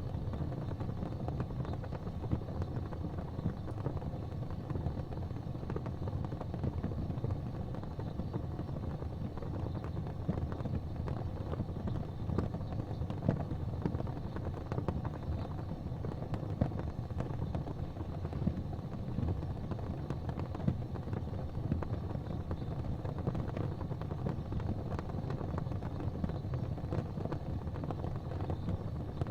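Gas fireplace flames burning with a steady low rumble, flecked with faint, scattered small crackles.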